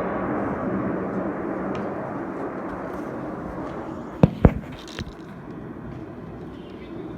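Snowbirds' CT-114 Tutor jets heard from afar, a steady jet noise slowly fading as the formation flies off. About four seconds in come two sharp, loud knocks close together, then a fainter one.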